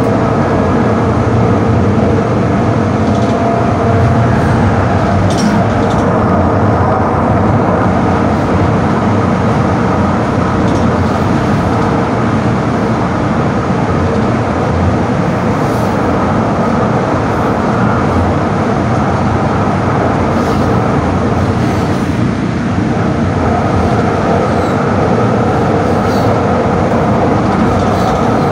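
Passenger train car running: a steady, loud rumble with a few faint clicks.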